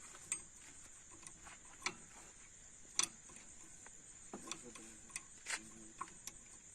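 Scattered sharp clicks and taps of hand tools on metal during tractor bearing work, irregular and a second or so apart, the loudest about three seconds in, over a steady high-pitched hiss.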